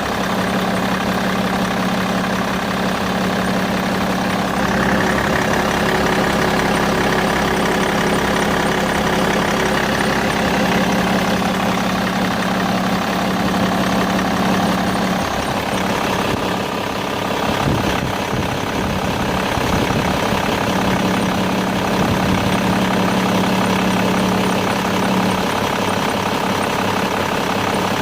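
BMW E61 engine running steadily at idle, making a noise called strange. A low hum in its sound comes and goes in spells of about five seconds, and it wavers briefly about two-thirds of the way in.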